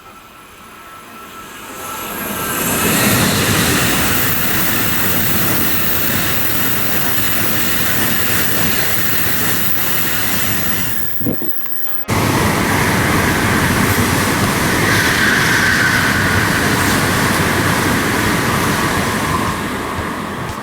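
Tokaido Shinkansen N700-series bullet train passing at speed, a loud rushing noise that builds over about two seconds and holds. About twelve seconds in it jumps abruptly into a second loud pass, which eases off near the end.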